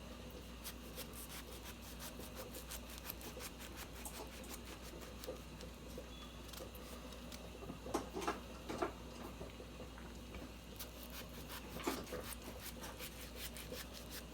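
Knife cutting through a breadfruit: a run of small clicks and scrapes, with a few louder knocks about eight seconds in and again about twelve seconds in.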